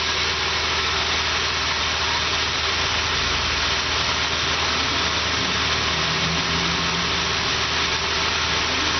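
Used 1998 Dodge Intrepid V6 engine running steadily at idle during a pre-sale test, with a strong even hiss over the engine note; the engine tested good.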